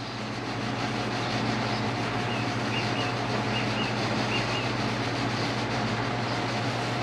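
Steady mechanical hum with an even hiss, like a running fan or air-conditioning unit, and a few faint, short, high chirps scattered through it.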